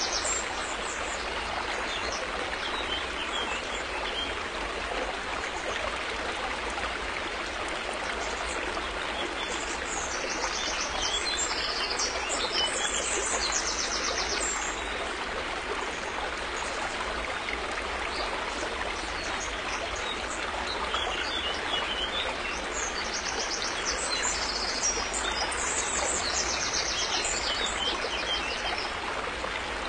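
River water flowing in a steady, continuous rush. Small birds chirp high above it at times, in two longer bouts.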